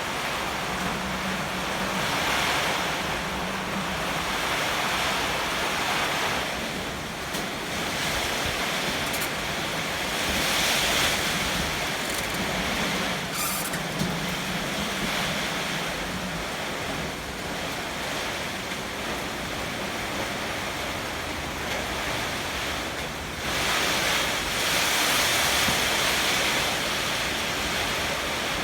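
Heavy typhoon rain with strong wind, a dense steady rush that swells and eases in gusts, strongest near the end.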